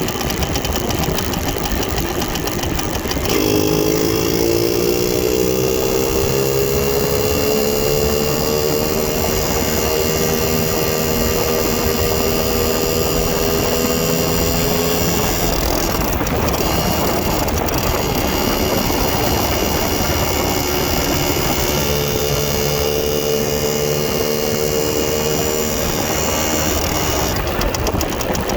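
The two-stroke single-cylinder engine of a 1969 Harley-Davidson Aermacchi MLS-125 Rapido running on the road. About three seconds in, its note rises slowly as it accelerates, then fades into a constant rushing noise, and it comes back steady for a few seconds near the end.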